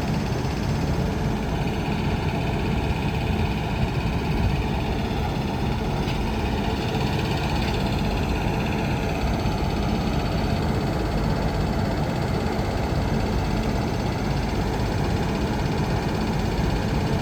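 Freight train of empty flat wagons and container wagons rolling past, a steady heavy rumble of wheels on rail. A faint high squeal wavers above it through the middle.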